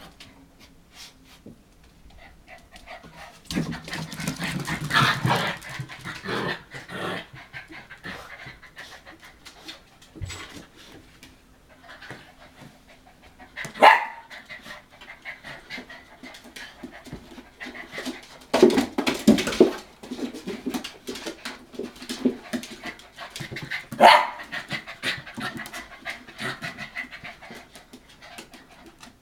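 Hokkaido dog puppies, about nine weeks old, panting and scrabbling about, with many small clicks and several louder bursts of activity. There are two sharp, sudden sounds, one about halfway through and another near the end.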